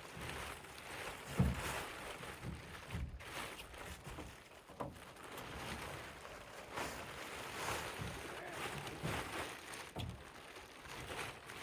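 Plastic tarp crinkling and rustling in irregular bursts as someone crawls out of a tarp tent over a truck bed, with a thump about a second and a half in.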